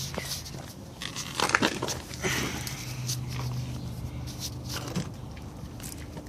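Handling noise: rustling, crackling and scattered clicks from a hand-held camera being moved about, over a low steady hum.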